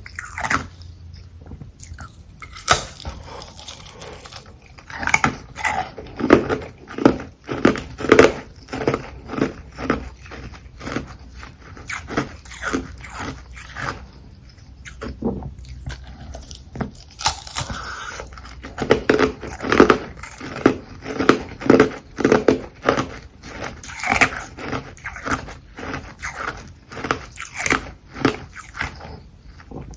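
Close-miked biting and chewing of carbonated ice frozen in bottles: runs of sharp, crunchy bites, each cluster followed by a brief lull.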